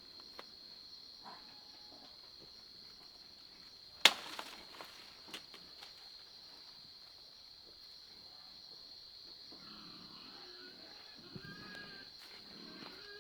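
Steady high drone of insects, with one sharp knock about four seconds in and a few short animal calls near the end.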